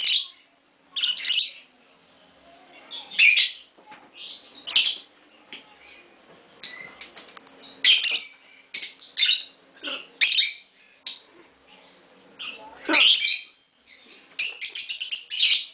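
Pet lovebirds chirping: short, sharp, high-pitched chirps in irregular clusters, with a quick run of chirps near the end.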